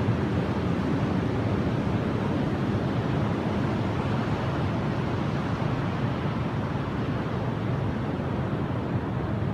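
Steady blizzard wind: a constant rushing noise that holds even throughout.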